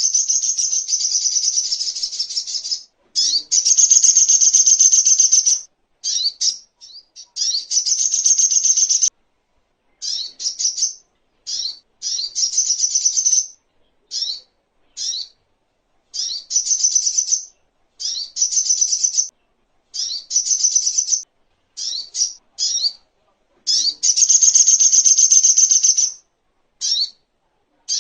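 Sogok ontong (little spiderhunter) calling: a run of rapid, high chips repeated in bursts, some short and some drawn out into trills of two to three seconds, with brief pauses between them.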